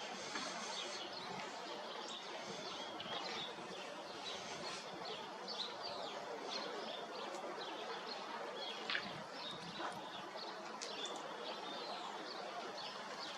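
Many small birds chirping, with short high calls scattered throughout over a steady background hiss.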